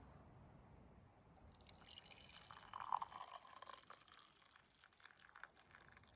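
Water being poured into a cup to make instant coffee, a faint trickle that starts about a second in, swells, then tapers off.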